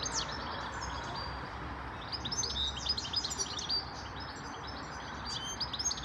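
Songbirds chirping outdoors: many quick, high chirps in clusters, busiest in the middle, over a steady low hum of background noise.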